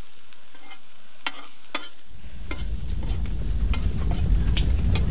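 Onions, ginger and garlic sizzling in hot oil in a pan while being stirred, with sharp clicks of the utensil against the pan. About two seconds in, a low rumble starts and grows louder.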